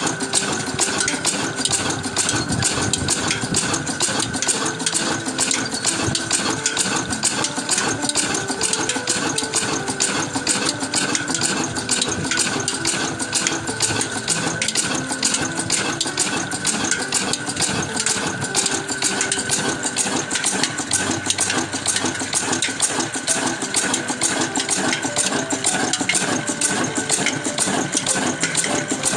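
An old engine-driven water pump running steadily with a rapid, even knocking beat.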